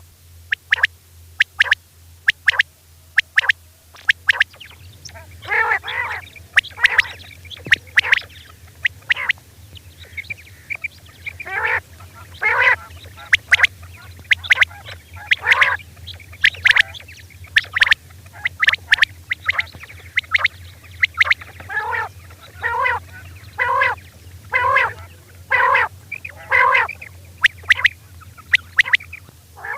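Female quail calling over and over: short sharp chirps at first, then from about five seconds in a run of harsher, fuller calls about once a second. A steady low hum runs underneath.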